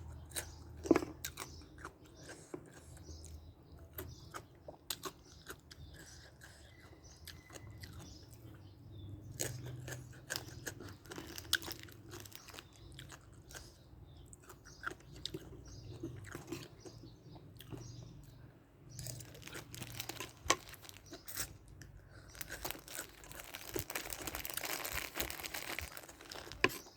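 A person chewing and crunching crisp food close to the microphone, with wet mouth clicks and smacks between bites and a denser run of crunching near the end.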